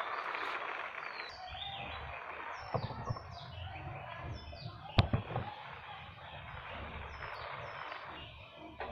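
Birds chirping in short, repeated falling notes. About five seconds in comes a single sharp knock, the loudest sound, with two softer knocks a little before it.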